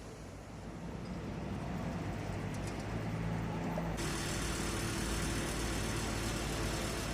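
A steady engine rumble, which turns suddenly brighter and harsher about four seconds in.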